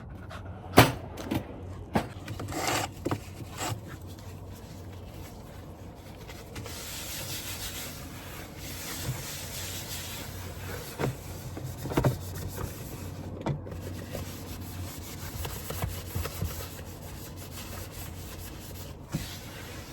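Scattered knocks, clicks and rubbing of things being handled, several in the first few seconds and a few more about eleven and twelve seconds in, over a low steady hum and some rustling.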